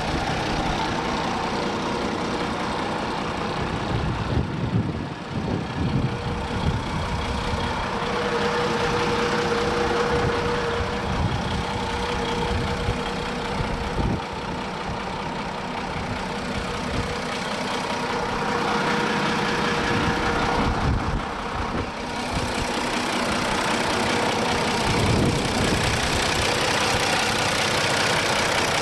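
1987 Kalmar DC12-1200 heavy forklift's diesel engine running steadily, with a steady whine over it that grows stronger for a few seconds about a third of the way in.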